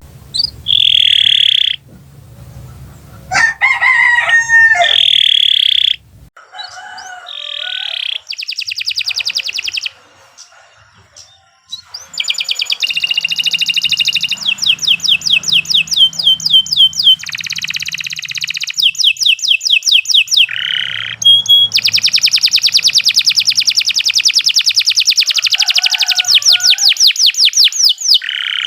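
Domestic canary singing a long, loud song of buzzy notes and trills, then a long run of fast repeated notes near the end, with a brief quiet pause partway through.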